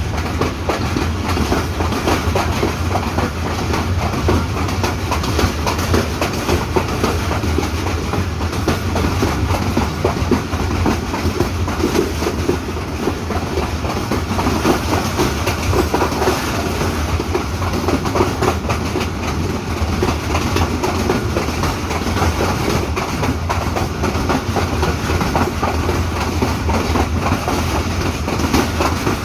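Hazara Express passenger train running along the track: a steady rumble with the wheels clattering over the rail joints.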